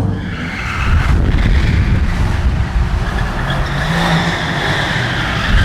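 Car engine revving loudly over a steady low rumble.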